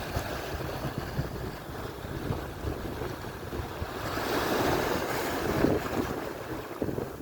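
Atlantic surf washing onto the shore, with one wave swelling and breaking about four seconds in. Wind buffets the microphone throughout.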